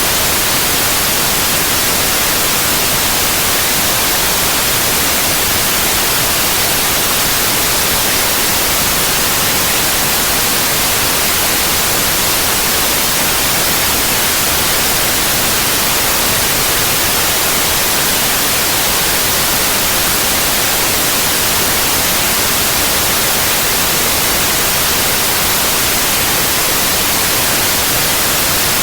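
Steady white noise: an even, unchanging hiss across all pitches, brightest in the treble.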